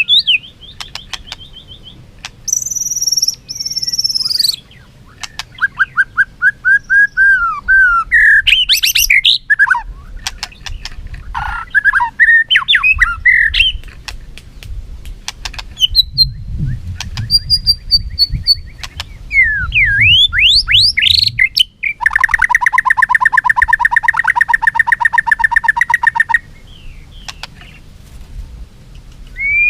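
White-rumped shama singing its fighting song: a varied, loud run of whistles, sweeping notes and rapid trills, with a harsh buzzing rattle for about four seconds near the end.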